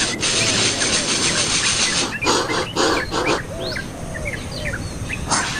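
Small birds at a nest giving many short, high chirps and some lower arched calls over a steady hiss, with a few louder bursts of noise about two seconds in.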